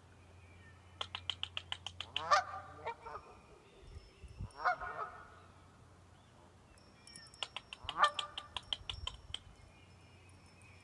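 Geese honking in bouts, agitated by a nearby cat: a quick run of short pulsed calls and a honk early on, a single honk near the middle, and another run of rapid calls with honks toward the end.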